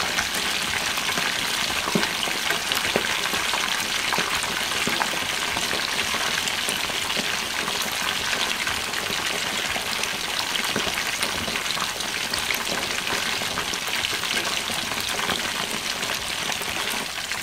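Chicken deep-frying in hot oil in a wok over high heat: a steady sizzle with fine crackling and a few sharper pops, the skin frying crisp.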